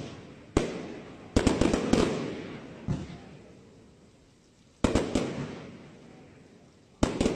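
Aerial firework shells bursting in a professional display: sharp bangs in clusters, each trailing off in a long rolling echo. There is a short lull in the middle before the next volley, about five seconds in, and another just after seven seconds.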